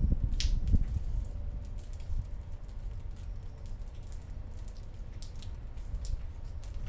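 Rain during a thunderstorm: scattered drops ticking and pattering close by over a steady low rumble, which is louder and fades away over about the first second.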